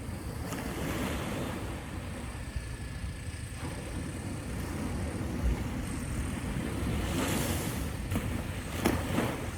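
Surf washing onto the beach, with wind rumbling on the microphone and a steady low machine rumble from construction. There are a couple of sharp knocks near the end.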